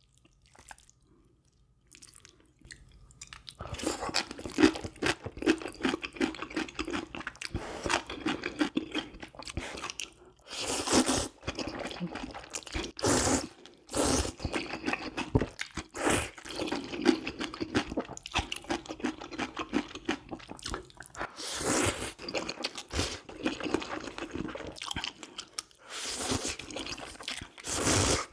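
Close-miked eating: a person chewing and crunching food, starting a few seconds in, with several louder, longer bursts through the rest.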